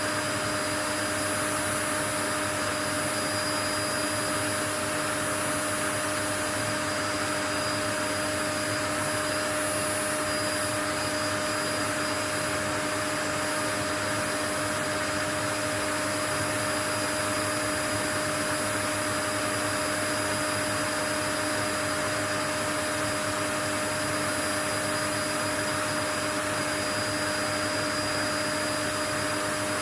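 Continuous white noise: an even, unchanging hiss with a few faint steady hum tones running through it.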